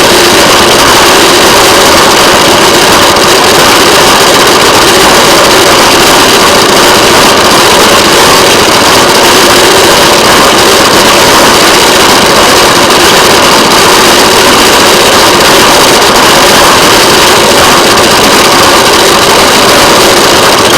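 Railway motorcar's small engine running steadily as the car travels along the track.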